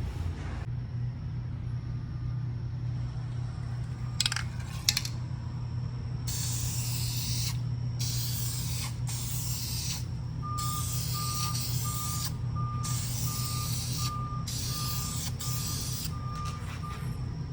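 Aerosol rattle can of black bumper paint spraying in repeated bursts of hiss, each one to two seconds long, starting about six seconds in, over a steady low hum. A few sharp clicks come about four seconds in, and from about ten seconds on a high beep repeats about one and a half times a second.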